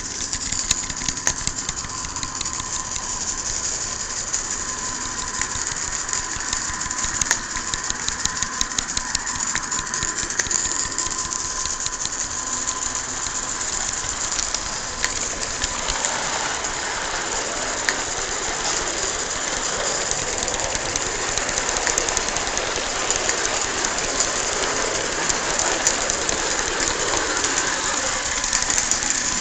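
Accucraft Shay live-steam garden-railway locomotive running under load: rapid exhaust beats and clicking over a steady hiss, the hiss growing fuller about halfway through.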